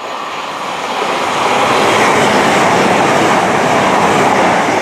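CrossCountry Class 221 Super Voyager diesel multiple unit running through the station at speed without stopping: a loud rush of wheel and engine noise. It builds over the first second and a half as the train closes in, then holds steady as the train passes close by.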